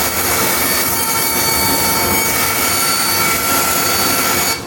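Bandsaw running and cutting through thin wood: a steady whine with a hiss over it, which cuts off abruptly near the end.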